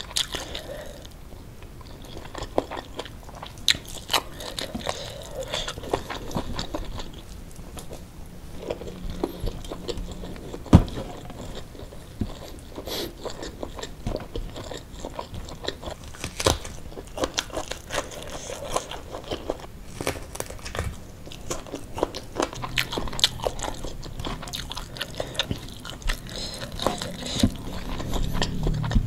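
Close-miked eating of rice with chili sambal: chewing and biting with many small, irregular crunches and wet clicks. A single sharper knock sounds about eleven seconds in.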